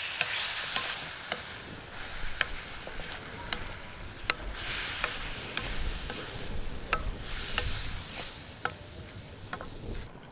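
Chicken and chopped onions sizzling in a steel karahi while being stirred. Wooden spatulas scrape and knock against the pan in irregular sharp clacks over a steady frying hiss. This is the bhuna (frying) stage, just after the onions go in.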